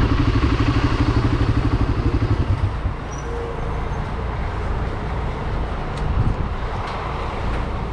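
Motorcycle engine running with a rhythmic low pulse, which stops about three seconds in, leaving a steadier rush of wind and background noise.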